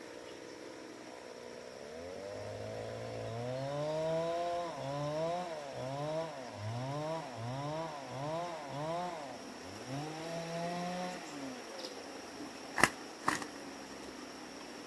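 A small engine revving up and down again and again, about once every half second or so, for several seconds before it drops away. Then two sharp knocks about half a second apart.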